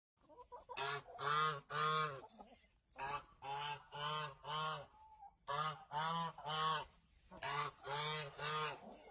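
An animal making short honking calls over and over, in runs of three or four about two a second, with short pauses between the runs.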